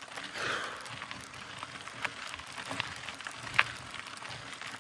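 Mountain bike rolling along a dirt trail: a steady crunch of tyres on grit with scattered sharp clicks of stones. The loudest click comes about three and a half seconds in.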